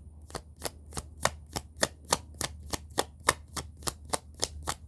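A deck of tarot cards being shuffled by hand, the cards slapping together in a steady rhythm of about three or four clicks a second.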